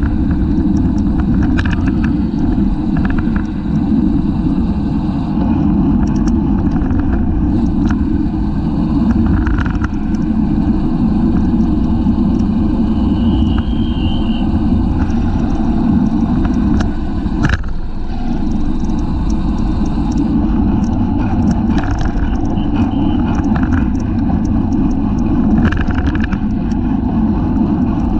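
Steady wind rush and road rumble on a racing bicycle's seat-mounted camera microphone while riding at speed, with scattered clicks and knocks from the bike.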